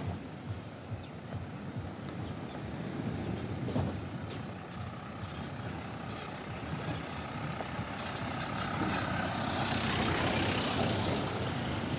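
A motor vehicle's engine running over a steady outdoor hiss, growing louder toward the last few seconds as it draws closer.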